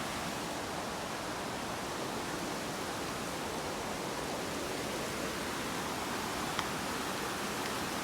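A waterfall's steady rush of falling water, with one faint click about six and a half seconds in.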